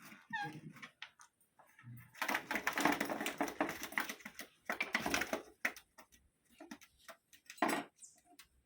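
Alexandrine parakeet giving a quick run of short chirps about half a second in, then a long stretch of harsh, scratchy squawking mixed with clicks and rustling, and scattered clicks near the end.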